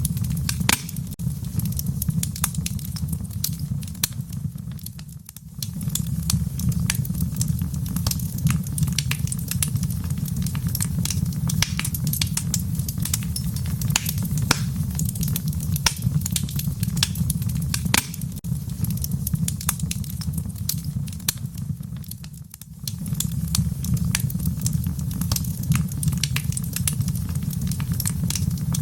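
Wood fire burning in a fireplace: frequent sharp crackles and pops over a steady low rumble of the flames. The sound dips briefly twice, about five seconds in and again near the twenty-two-second mark.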